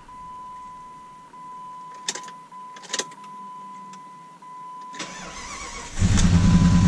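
Jeep Grand Cherokee WJ 4.7 V8 being started after its fuel injectors were refitted: a couple of sharp clicks, then cranking from about five seconds in. It catches about a second before the end and runs loudly, running oddly for a moment as it first fires.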